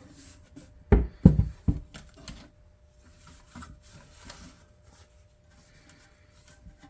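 Handling noises: three knocks in quick succession about a second in, then soft rubbing and rustling.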